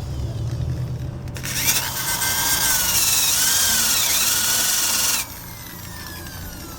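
Electric drill with a wire-brush attachment scrubbing bare metal to strip rust and paint. It starts about a second and a half in and cuts off suddenly about five seconds in.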